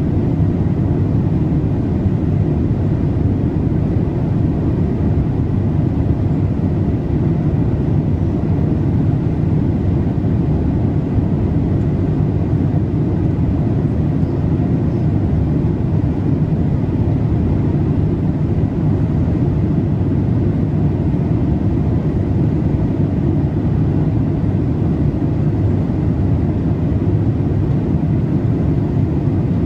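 Boeing 787-8 cabin noise in cruise: a steady, deep rush of airflow and engine noise with no changes.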